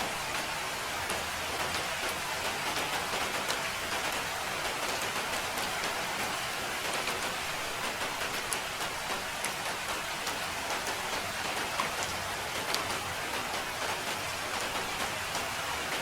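Steady rain falling and pattering on surfaces, an even hiss with many small drop ticks scattered through it.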